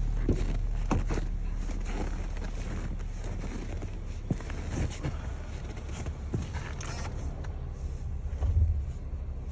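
A 2020 Chevrolet Malibu's engine idling steadily just after a cold start at about minus 20 degrees, with scattered light clicks and knocks over it.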